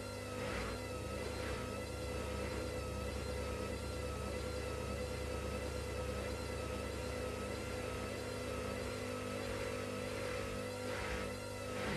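Washing machine running: a steady low motor hum with a high whine that wavers slowly up and down as the drum turns. A few rhythmic pulses, a little under one a second, come near the start and again near the end.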